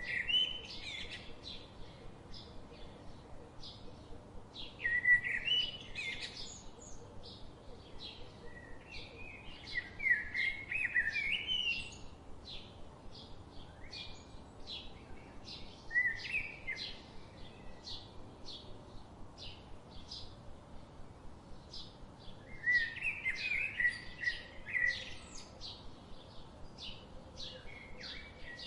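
Songbirds chirping: a steady run of short, high chirps about twice a second, with louder warbling song phrases breaking in every few seconds.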